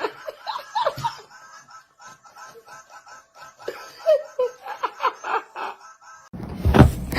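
Laughter in short, quick repeated bursts over music. About six seconds in it gives way abruptly to a louder noisy sound with a sharp knock.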